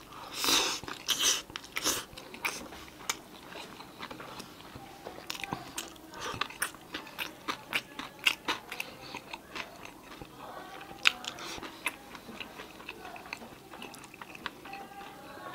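A person chewing and biting food close to the microphone: many short crisp crunches and wet mouth clicks. The loudest bites come about a second in.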